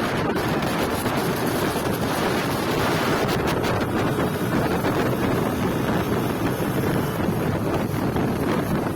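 Steady, loud wind noise buffeting the microphone, an unbroken rushing hiss with no clear engine tone.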